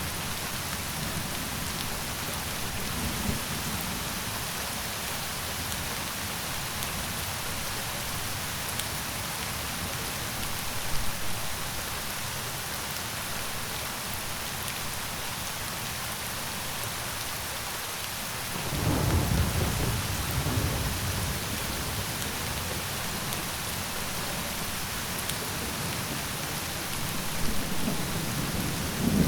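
Steady rain falling, with low rumbles of thunder: a short one about a third of the way in, a longer, louder roll starting about two-thirds in, and another near the end.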